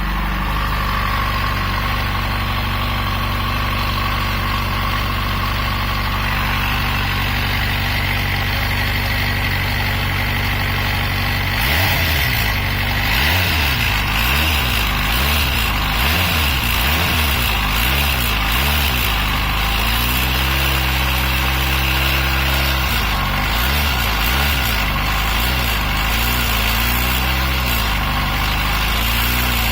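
Yamaha FZ6 inline-four motorcycle engine running with a knock whose cause the owner does not know; he reckons the timing chain is in ideal condition. The engine sound turns uneven about twelve seconds in.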